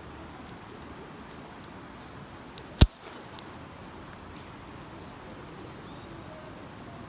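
Wood campfire crackling with scattered small ticks, and one loud, sharp pop a little under three seconds in.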